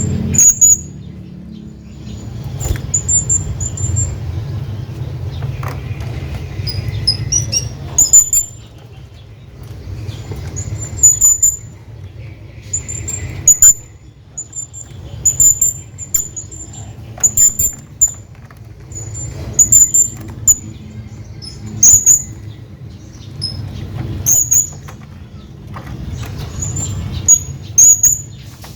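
Hanging parrot giving short, very high-pitched calls, repeated in quick clusters every second or two, over a low steady hum.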